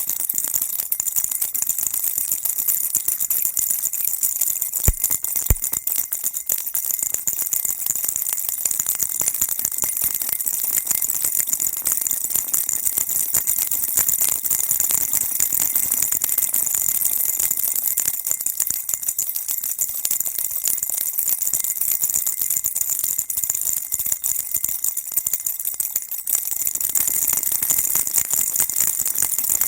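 Baby rattle shaken without a break, a steady dense jingling rattle that sits mostly high in pitch. Two short low knocks come about five seconds in.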